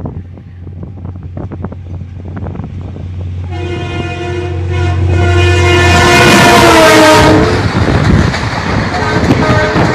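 Diesel locomotive approaching with a low drone that grows louder, sounding a long horn blast from about three and a half seconds in; the horn drops in pitch as the train passes. Then the loud rush and clatter of passenger coaches going by.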